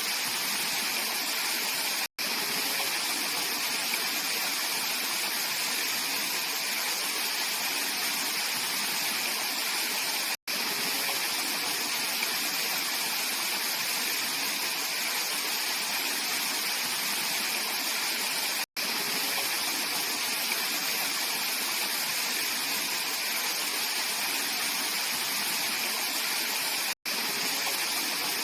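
Mountain valley stream rushing steadily over rocks, a full, hissing water sound. It is broken by a split-second gap about every eight seconds.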